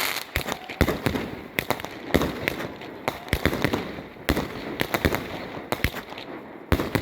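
Fireworks going off: a rapid, irregular series of sharp bangs and cracks, several a second.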